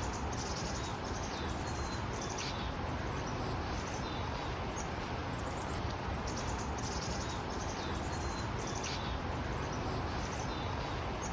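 Outdoor ambience: small birds chirping and calling on and off over a steady background hiss.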